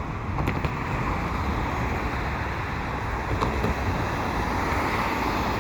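Road traffic going by: a steady wash of car engine and tyre noise over a low rumble.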